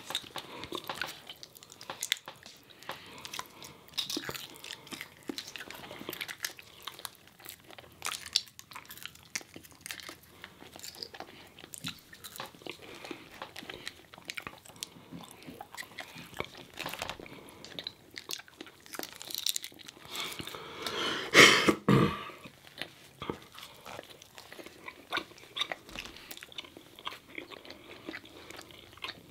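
Chewing and crunching of crispy fried food, with many small mouth clicks and a louder crunch about two-thirds of the way through.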